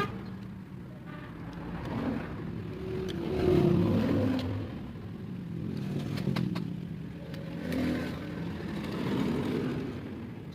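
Road traffic: motor vehicle engines swelling and fading as they pass, loudest about three and a half seconds in.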